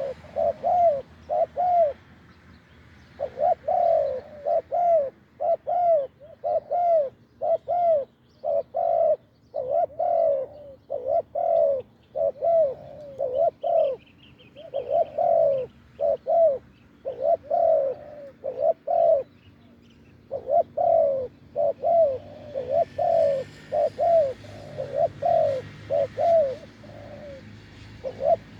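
Spotted doves cooing: a long run of repeated coo notes, about one and a half a second, breaking off briefly about two seconds in and again near twenty seconds.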